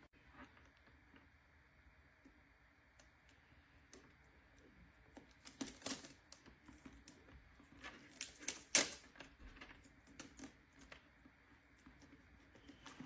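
Scissors snipping through paper tattoo sheets and the paper rustling as it is handled: light, irregular clicks and rustles, bunched into a few short flurries.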